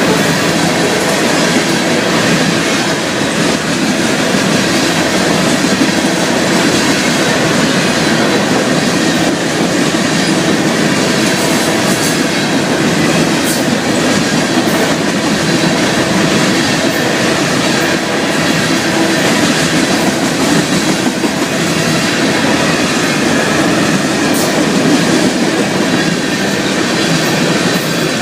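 Florida East Coast Railway freight train cars rolling past close by: a loud, steady rumble and rattle of steel wheels on the rails, with clickety-clack and a few sharp ticks.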